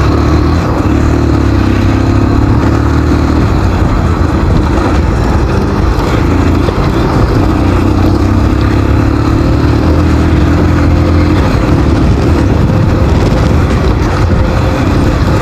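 Motorcycle engine running under way, its pitch rising and falling a little with the throttle, over a steady rushing noise.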